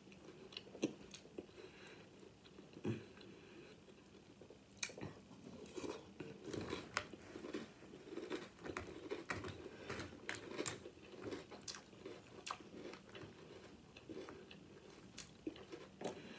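Close-up chewing of a mouthful of Sour Patch Kids cereal: irregular sharp crunches and crackles as the pieces are bitten and ground between the teeth.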